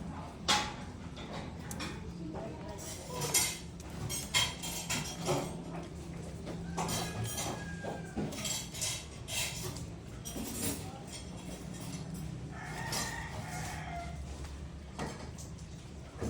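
Pigeons feeding: irregular sharp clicks and clatter of beaks and grain on a feeder, over a steady low hum, with a chicken's call about two-thirds of the way through.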